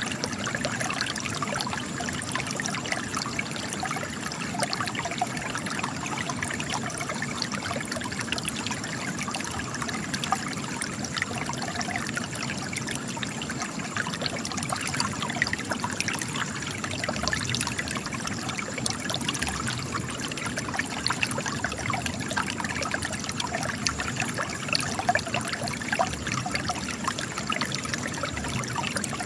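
Spring water trickling and splashing out of cracks in rock, a steady babble of small drips and flows.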